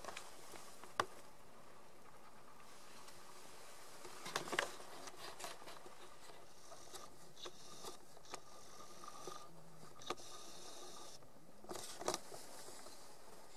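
Faint, scattered rustling and scraping of nylon fabric, as of a bivvy bag and sleeping bag being shifted, with a few sharp clicks. The loudest cluster comes about four and a half seconds in.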